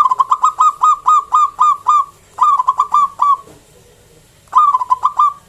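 Zebra dove (local perkutut) singing loudly in three phrases of quick staccato coos: a long run of about eleven notes, a shorter run of about six, then one of about five near the end.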